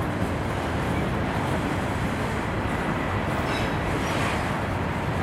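Freight train of autorack cars rolling past, a steady, even noise of wheels on the rails.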